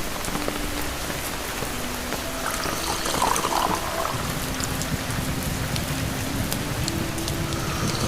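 Steady rain falling, an even hiss with scattered drips and ticks.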